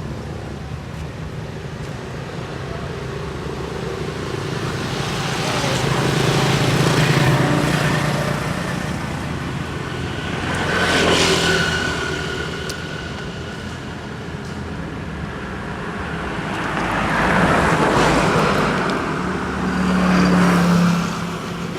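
Road traffic: vehicles pass one after another over a steady engine hum, each one swelling and then fading, about four times.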